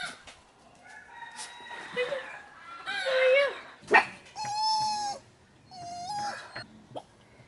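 Farm animals calling: a series of four drawn-out, pitched calls, each under a second long. The longest comes about halfway through. There is a sharp click just before it.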